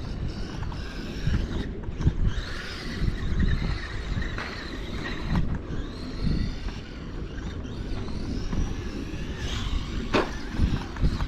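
Feiyue Fighter 1/12-scale RC short course truck driving, its brushed electric motor whining up and down in pitch with the throttle over a low rumble. There is a sharp knock about ten seconds in.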